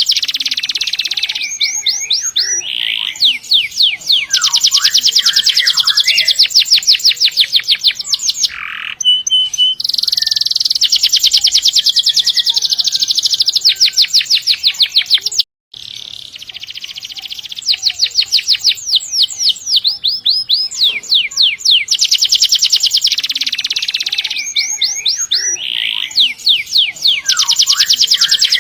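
Domestic canary singing long, fast rolling trills, high-pitched phrases of several seconds each following one another with short breaks. The song cuts out for a moment about halfway through.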